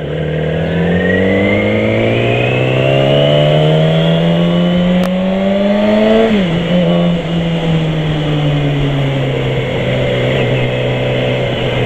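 Yamaha R6 sport bike's inline-four engine, heard from the rider's helmet over wind rush, accelerating with a steadily rising pitch for about six seconds. Its pitch then drops sharply, as at an upshift, and it runs on at a nearly steady speed.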